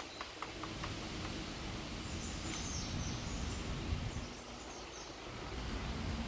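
A woodpecker pecking a tree, a few quick light taps right at the start, then a brief high bird call about two and a half seconds in, over steady outdoor background noise.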